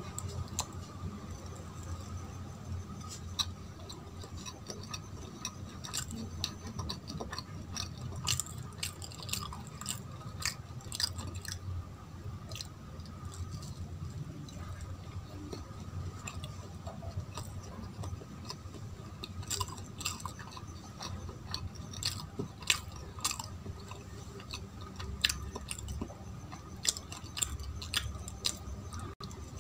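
Close-up chewing of a soft, sticky Indian sweet (a laddu), with many sharp wet mouth clicks and smacks scattered through the chewing.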